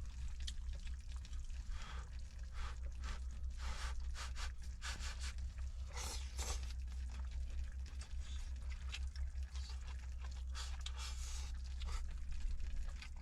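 Irregular rustling, scraping and crunching of food and packaging being handled while cooking, over a steady low rumble.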